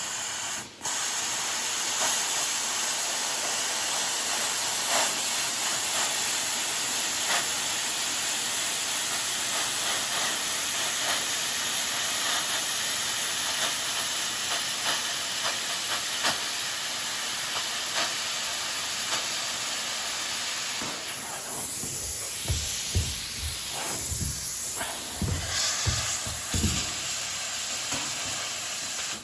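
Plasma cutter cutting through steel sheet with a steady hiss, then breaking up near the end into short stops and starts with a few low knocks.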